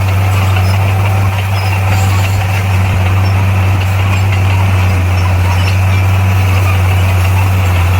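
Bulldozer's diesel engine running steadily with a deep, even hum that holds at one pitch.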